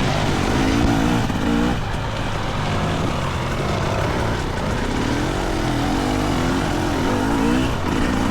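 GasGas EC300 two-stroke dirt bike engine running under a constantly worked throttle, its pitch rising and falling again and again as the bike is ridden along tight trail.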